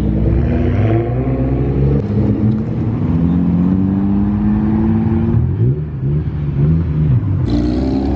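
Sports car engine accelerating with its pitch rising steadily, then revved up and down several times. Another engine takes over abruptly near the end.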